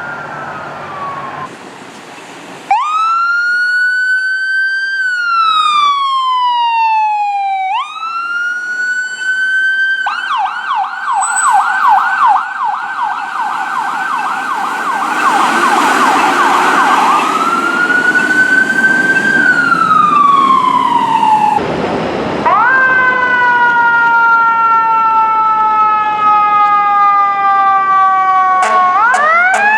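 Fire apparatus electronic sirens in wail mode, the pitch rising and falling slowly. About a third of the way in they switch to a fast yelp for several seconds, then go back to the wail.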